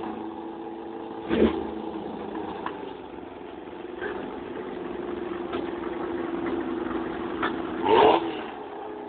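A car engine running steadily, revved briefly about a second and a half in and again near the end.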